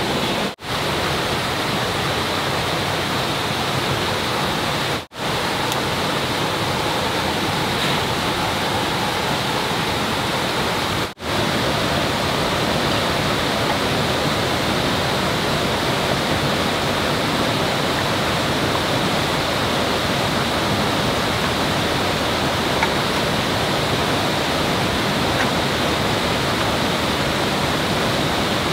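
Steady rush of flowing water, broken by three short cuts to silence within the first eleven seconds.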